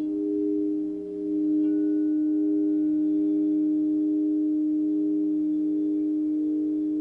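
Sound-healing drone of several layered, sustained pure tones, slowly pulsing in level. A fresh tone comes in about a second and a half in.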